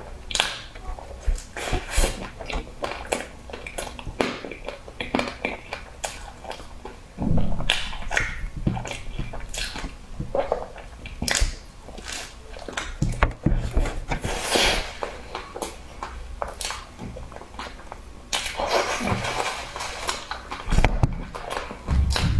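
Close-up chewing and wet mouth sounds: irregular smacks and clicks of someone biting and chewing a soft, creamy bun coated in meat floss.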